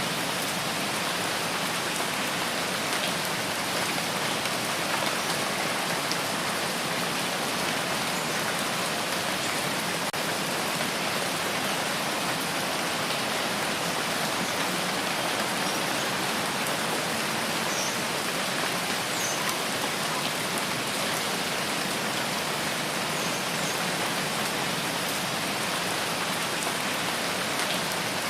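Steady rain falling in a rain forest, an even hiss that keeps the same level throughout.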